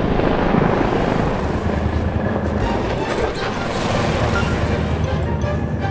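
Cartoon flying-vehicle engine noise: a steady, noisy rumble with a low hum, over background music.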